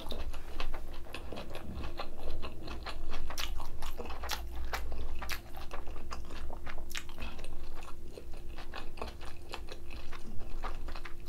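Close-miked chewing with the mouth closed: an irregular run of small crisp clicks and crunches, several a second.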